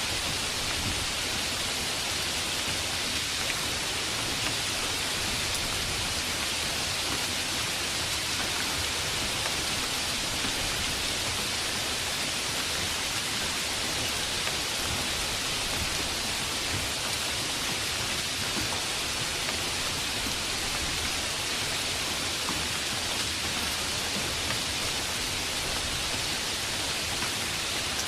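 Steady heavy rain: an even hiss with no breaks or separate drops standing out.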